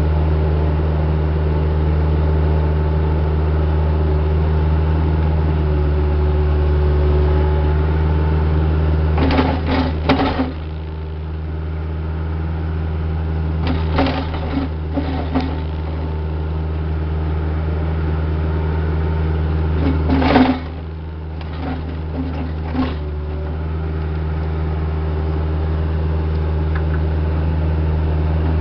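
Diesel engine of heavy equipment running steadily, its note dipping briefly twice. Several short bursts of clanking and knocks come over it.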